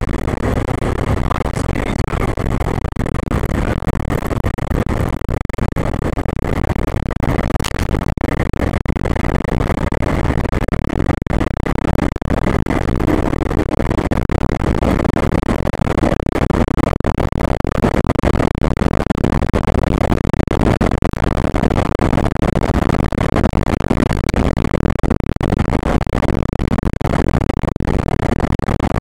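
Fire engine under way: steady engine and road noise heard from inside the cab.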